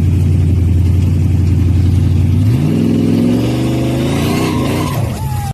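Car engine running loudly at a steady low pitch, then revving up about two and a half seconds in as the car accelerates, its pitch climbing.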